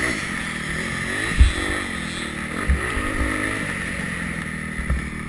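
Yamaha YZ250F motocross bike's four-stroke single-cylinder engine revving up and down through the throttle, with a few dull thumps along the way.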